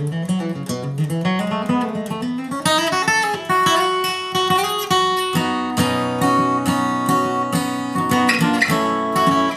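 Acoustic guitar flatpicking a bluegrass instrumental break, opening with a rising run of single notes and going on with picked and strummed chord notes.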